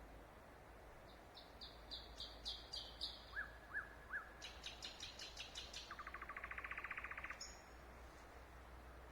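Nightingale's night song, one varied phrase. It opens with a series of high repeated notes, then three lower notes that rise and fall, then a run of sharp clicks, then a fast buzzy rattle, and ends with a brief high whistle.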